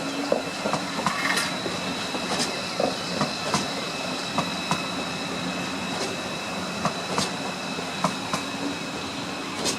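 Train rolling through a station, its wheels clicking irregularly over rail joints and points, with a steady high-pitched whine or squeal held throughout.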